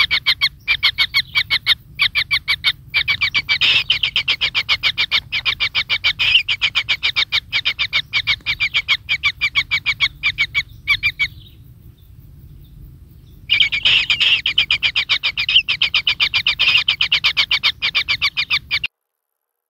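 Kingfisher nestlings calling in the nest: a fast, unbroken run of high chirps that stops for about two seconds midway, starts again, then cuts off suddenly near the end.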